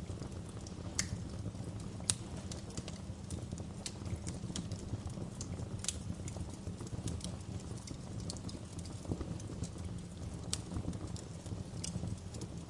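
Wood fire crackling in a fireplace: irregular sharp pops and snaps over a steady low rumble of the flames, with a few louder pops about 1, 2, 6 and 10 seconds in.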